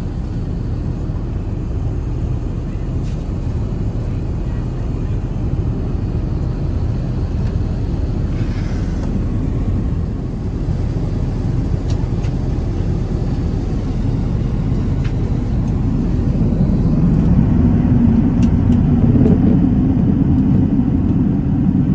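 Airbus A380-861 cabin noise: the steady low rumble of engines and airflow heard from inside the cabin, growing louder over the last few seconds.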